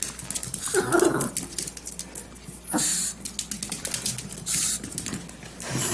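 A dog's brief whine about a second in, with light clicking and scuffling and two short hissing noises.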